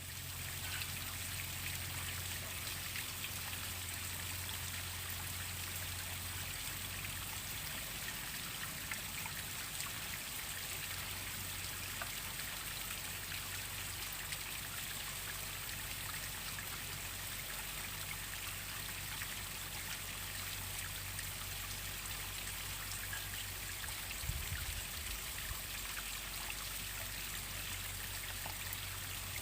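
Waterfall water falling and running steadily, an even rushing and splashing. A faint low hum underneath stops about six seconds in.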